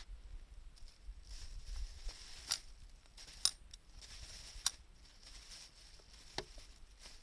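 Small wood fire burning in a DIY secondary-combustion can stove: a steady hiss with four sharp crackling pops, the loudest two in the middle.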